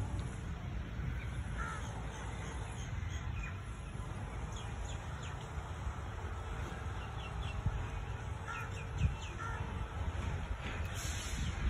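Birds calling and chirping over a steady low rumble, with one sharp thump about nine seconds in.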